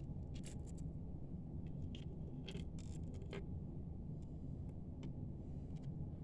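Gemstone beads clicking and tapping lightly as they are set into the grooves of a bead design board, a scatter of short clicks, the busiest stretch in the first three and a half seconds, over a steady low hum.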